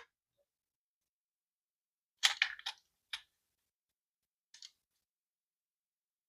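Small clicks from handling a diecast toy car and its plastic packaging: a quick cluster of light clicks about two seconds in, one more a second later and a faint tick near the end, with silence in between.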